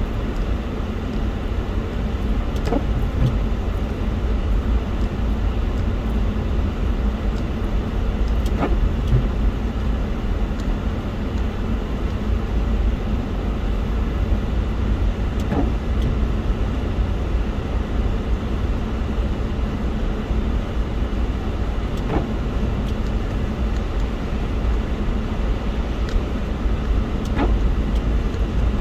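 Steady low rumble of a moving car, with a faint tick about every six seconds.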